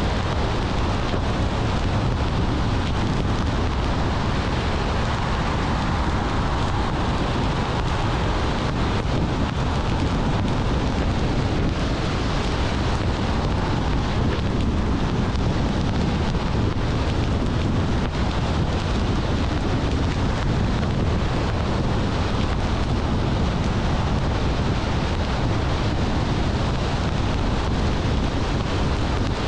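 Steady road noise of a car driving along at speed: tyre rumble and wind noise, with no changes of pitch or level.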